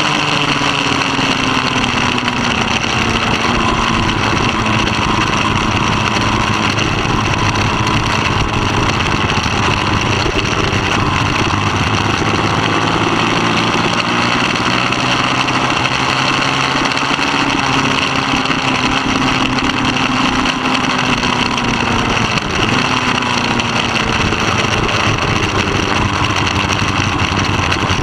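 Middleweight superbike engine running hard under racing throttle, its pitch rising and falling repeatedly through acceleration and gear changes.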